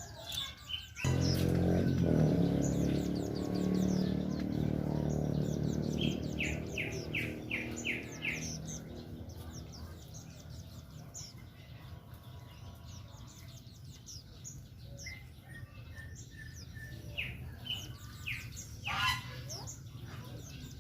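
Small birds chirping and calling, with a quick run of about six repeated notes midway and scattered short chirps throughout. A loud low hum starts abruptly about a second in and fades away over the following several seconds.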